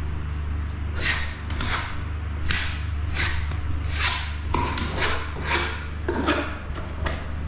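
A hand scraper making short, rough scraping strokes, about one a second, some closer together. A steady low hum runs underneath.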